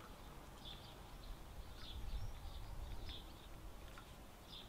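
Small birds chirping in the background, short high calls repeated every half second or so, over a faint low rumble.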